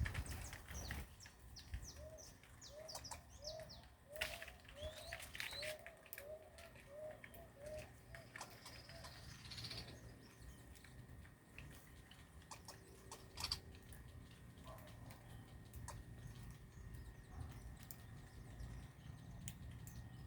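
Birds chirping faintly, with high quick chirps over a run of short, low repeated notes, about three a second, in the first several seconds, then scattered clicks and occasional chirps.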